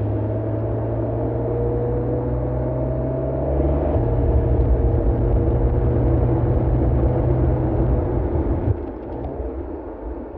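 Mercedes-AMG CLE 53's 3.0-litre turbocharged inline-six running under load, its pitch rising slowly. The pitch drops at a gearshift about four seconds in, and the engine note falls away and quietens near the end.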